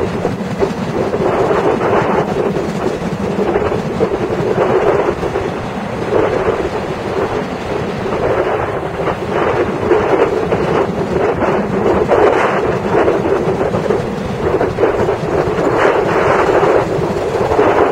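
Rapid transit train running at speed, heard at the gap over the coupling between two cars: a loud, steady rumble of wheels on rails with irregular rattling and clatter.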